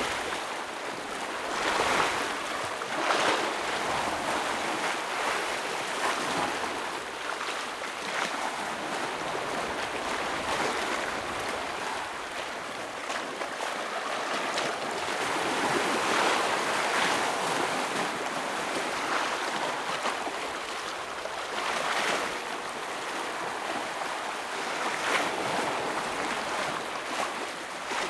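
Ocean waves washing and breaking against shoreline rocks: a continuous surf wash with a louder splash surging up every few seconds.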